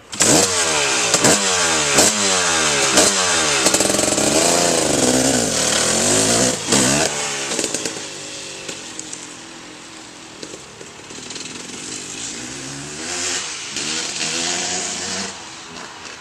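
Two-stroke engine of a KTM 300 MXC dirt bike revving hard up through the gears, its pitch climbing again and again about once a second. It then rises and falls, fades off into the distance about seven seconds in, and swells back briefly near the end.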